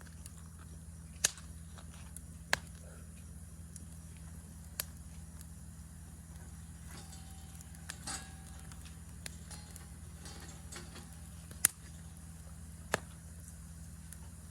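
Wood fire burning, with sharp crackling pops snapping out every second or few over a steady low rumble.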